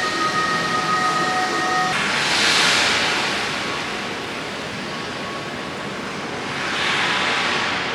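Steady rain on a street while vehicles pass on the wet road, their tyres hissing up and away about two and a half and seven seconds in. A steady high tone cuts off about two seconds in.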